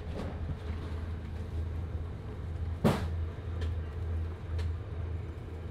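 Low, steady rumble of an overnight sleeper train running, heard from inside the compartment. A single sharp knock comes about three seconds in.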